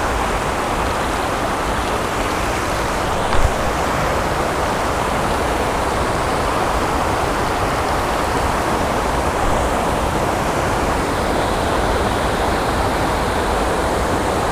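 Steady rush of water pouring over a small creek waterfall and spillway, with one brief knock about three seconds in.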